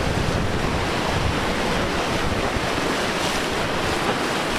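Sea waves and wind, a steady rushing noise.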